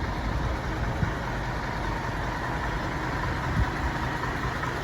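Diesel engine of a Scania Caetano Levante coach idling steadily.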